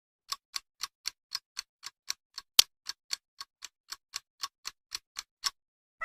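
Clock ticking, about four even ticks a second, with one tick about two and a half seconds in louder than the rest; it stops shortly before the end.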